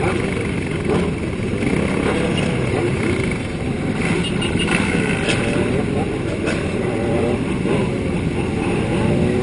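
Motorcycle engines running steadily, mixed with many people talking at once.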